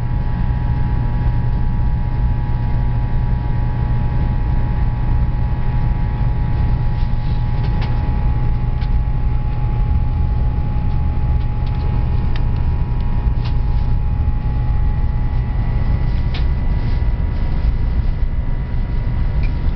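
A train running steadily: a continuous low rumble with a steady whine over it, and scattered short clicks from about seven seconds in.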